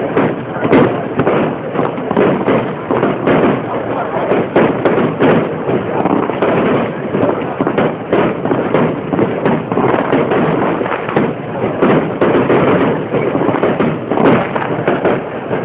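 Fireworks display: a dense, continuous barrage of aerial shells bursting, several bangs and crackles a second.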